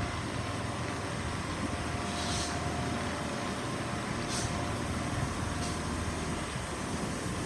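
Steady low mechanical hum, with a few short hisses in the middle.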